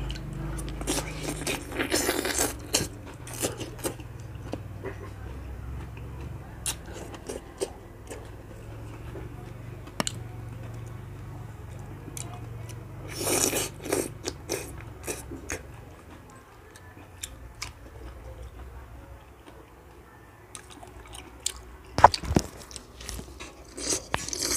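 A person biting into and chewing pieces of fresh pineapple, in bouts of clicky, wet mouth noises near the start, about halfway through and again near the end.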